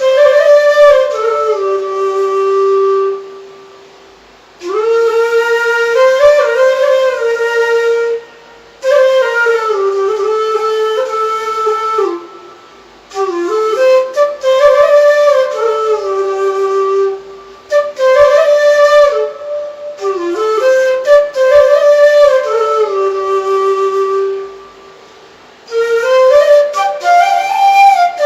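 Music: a single flute playing a slow melody in phrases a few seconds long, with brief pauses between them.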